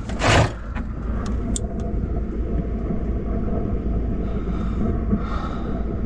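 Strong wind buffeting a parked RV, heard from inside as a steady low rumble. There is a short, loud rushing gust just after the start and a few sharp ticks about a second and a half in.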